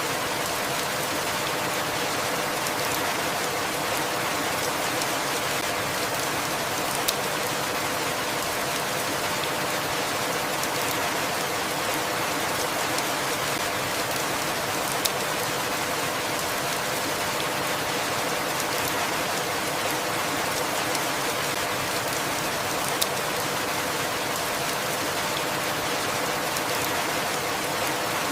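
Steady, even rainfall, with a few louder single drops ticking now and then.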